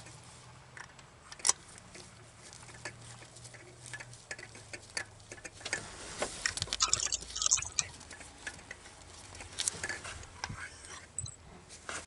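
Scattered light clicks and rattles of hand tools and small engine parts being handled while parts are refitted to the engine. A busier patch of scratchy clicking comes about six to eight seconds in.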